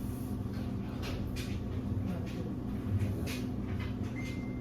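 A steady low machine hum with a few faint clicks, and a thin high tone near the end.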